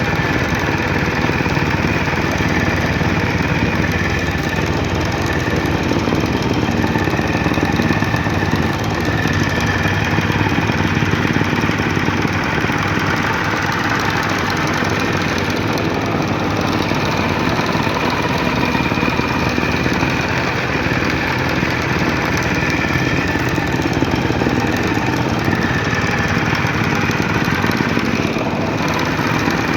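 Soil compaction machine running steadily: its engine runs with a fast, even pounding vibration as it compacts soil.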